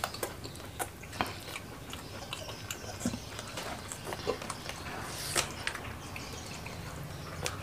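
Close-up eating sounds: chewing with scattered wet mouth clicks and smacks as food is picked up by hand and eaten, the sharpest click about five and a half seconds in.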